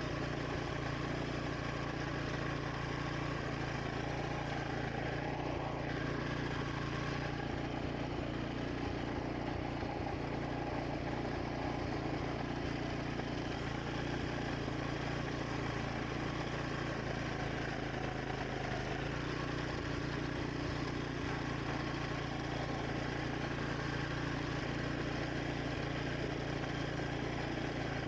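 Wing mower's engine running steadily while cutting grass, its pitch shifting slightly about two-thirds of the way through.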